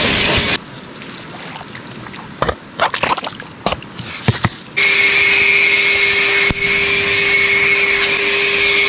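Shop vacuum running with a steady whine, sucking material through its hose. It drops out abruptly about half a second in, leaving a few sharp knocks and scrapes on rock. The vacuum comes back just as abruptly about five seconds in.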